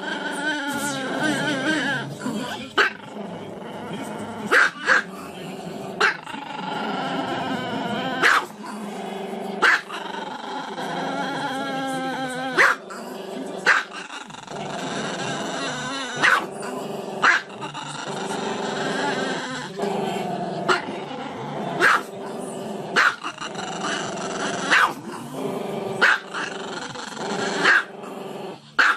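Small Chihuahua howling with its muzzle raised: long, wavering howls that rise and fall in pitch. Short, sharp barks cut in every second or two and are the loudest sounds.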